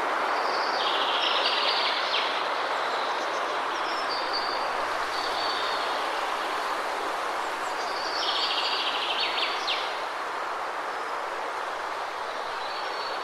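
Steady rush of a waterfall, with a bird singing short phrases of high chirps over it, about every three to four seconds.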